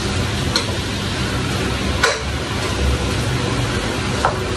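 Chicken and broccoli sizzling as they fry in a pan, stirred with a spatula that clinks against the pan about three times.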